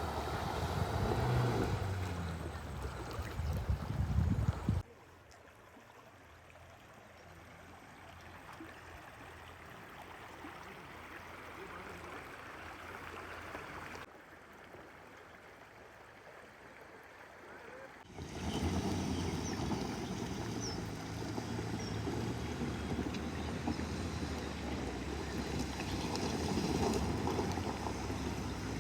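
Steady rushing of river water with wind on the microphone, heard in separate cuts that drop much quieter between about 5 and 18 seconds in.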